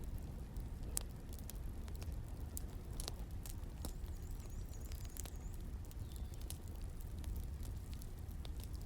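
Wood fire crackling: irregular sharp pops and snaps over a steady low rumble, with a couple of louder pops about one and three seconds in.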